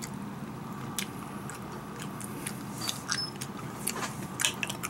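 A child chewing a mouthful of soft cream risotto, with small wet mouth clicks that come more often near the end, over a steady low hum.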